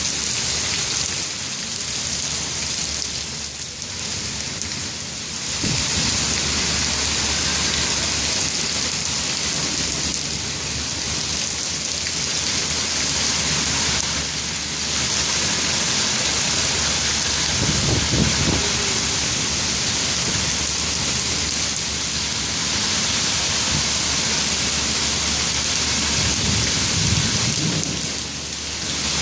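Heavy rain falling steadily, with a few brief low rumbles underneath: one about six seconds in, one past the middle and one near the end.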